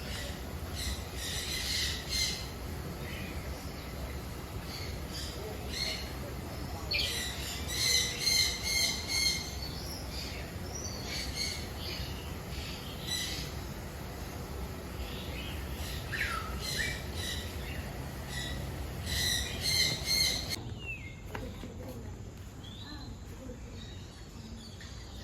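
Birds calling in quick runs of short, sharp notes, loudest about eight seconds in and again about twenty seconds in, then stopping abruptly.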